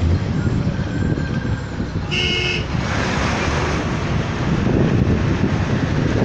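Steady low rumble of a vehicle travelling on the road, with one short horn toot about two seconds in.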